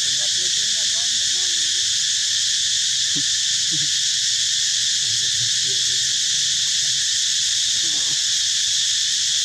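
A steady, high-pitched chorus of insects droning without a break, with faint voices underneath at times.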